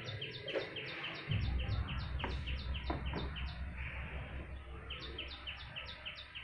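A small bird chirping in quick repeated high notes, several a second, with a short pause near the middle. A steady low hum comes in about a second in, and a few soft taps and rustles come from a measuring tape and ruler being laid on cloth.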